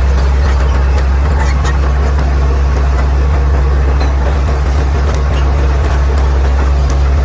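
Caterpillar D6R XL bulldozer's diesel engine running at a steady, deep drone, with a few faint clicks over it.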